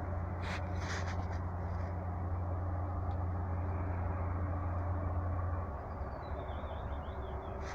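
A campfire burning with a steady low rush and a couple of sharp crackles about half a second and a second in; a bird gives a short run of high falling chirps near the end.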